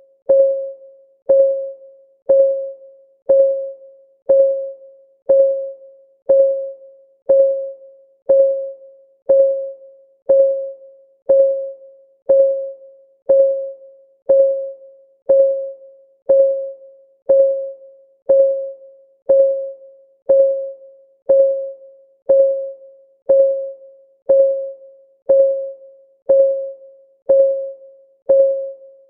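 Clock ticking sound of a countdown timer: one short, mid-pitched tick every second, each fading quickly, perfectly regular.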